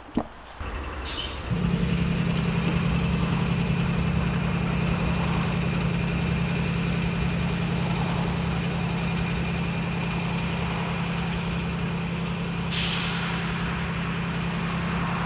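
Diesel train running with a steady low drone, with two bursts of air hiss, about a second in and again near the end.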